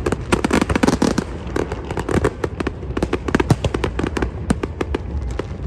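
Fireworks display going off: rapid, dense crackling and popping of bursting shells over a continuous low rumble.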